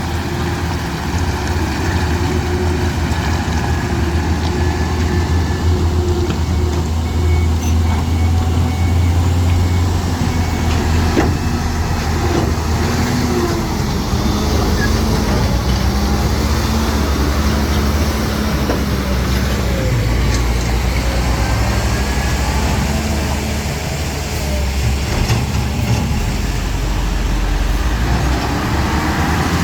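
Heavy diesel engines of earthmoving machinery, dump trucks and excavators, running under load, the engine pitch rising and falling as they work.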